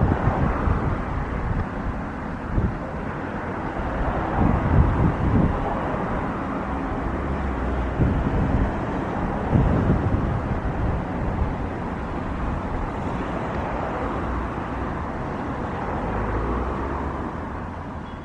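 Jet airliner engines giving a steady, loud rush, with wind buffeting the microphone in gusts; the sound dies away near the end.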